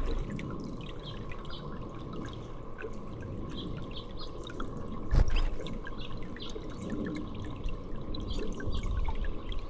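Water dripping and trickling, with many small quick drops. A single dull thump about halfway through is the loudest sound.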